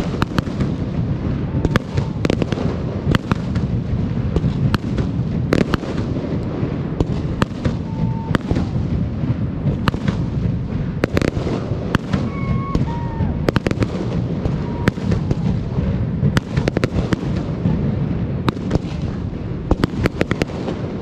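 Fireworks display: a rapid, unbroken series of sharp bangs and crackles over a continuous low rumble of booms.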